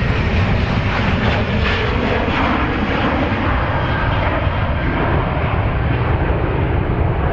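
Airliner engines running loud and steady as the aircraft passes close by.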